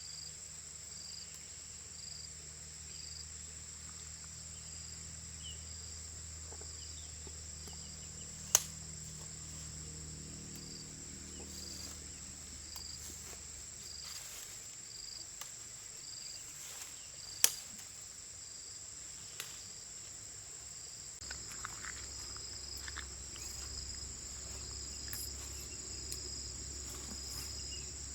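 Insects chirping: a steady high trill, with a second call pulsing about twice a second, over a faint low hum. Two sharp clicks stand out, and light tapping and clatter begin about two-thirds of the way through.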